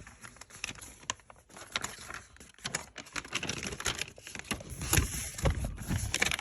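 Old paper instruction sheets rustling and crinkling as they are handled, with a run of soft clicks and taps that grows louder and busier toward the end.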